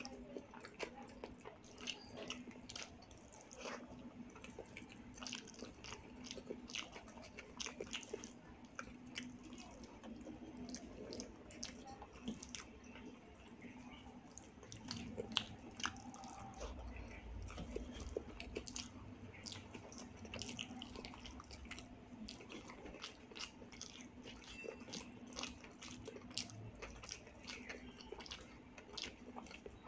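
Close-miked chewing of rice eaten by hand, with many quick wet clicks and smacks of the mouth and the squish of fingers mixing rice on the plate. A faint steady hum sits underneath.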